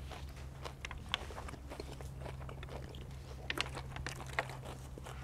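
Close-up chewing and mouth sounds of a person eating, with irregular small clicks and crunches over a steady low hum.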